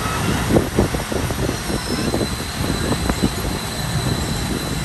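Passenger train coach rolling slowly along the track, its wheels and running gear giving an irregular knocking and rattling over a steady rumble. A thin, steady high squeal sets in about halfway through, as the train slows for its stop.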